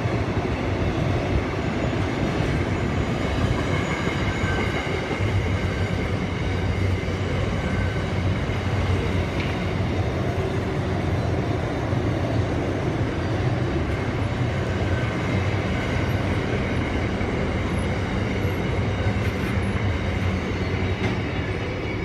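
Container wagons of a freight train rolling across a concrete rail bridge: a steady, loud rumble and clatter of steel wheels on rail, with a faint high-pitched wheel squeal at times. The sound eases slightly near the end as the last wagons pass.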